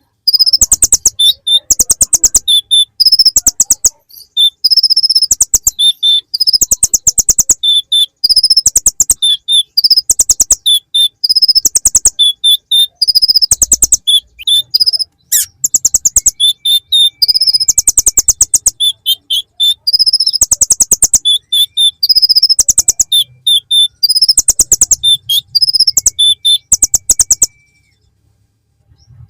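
A kolibri ninja (konin) sunbird singing in rapid, high, buzzy trills about a second long, repeated with short gaps. The song is filled with mimicked phrases of the bar-winged prinia (ciblek). It pauses briefly near the end.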